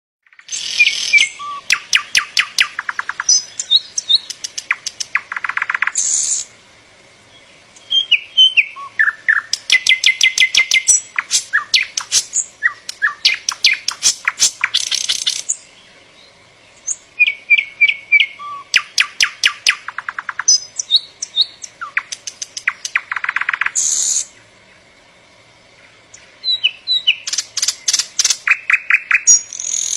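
A songbird singing loud, complex phrases of rapid trills and whistled notes. The phrases come about every eight seconds, each lasting several seconds, with short pauses between them.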